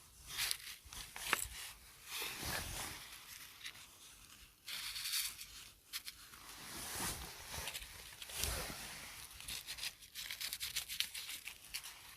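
Close rustling, crackling and tearing sounds in irregular bursts, with a quick run of small clicks about ten seconds in.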